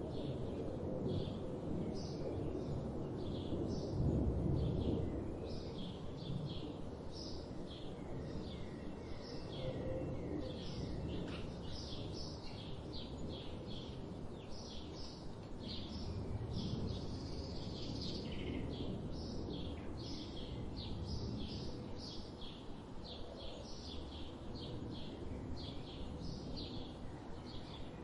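Wild songbirds chirping and singing: many short, quick high notes, close together throughout, over a steady low background rumble.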